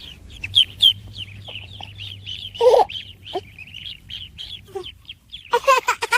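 Chickens calling: a continuous chorus of short, high chirps, with a louder, lower call about two and a half seconds in and a burst of loud calls near the end.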